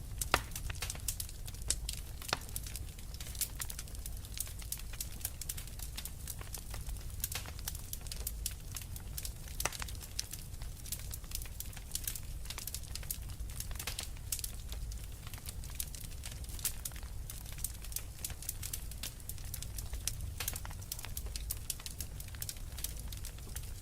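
Wood fire crackling, with frequent sharp pops and snaps of varying strength over a low, steady rumble.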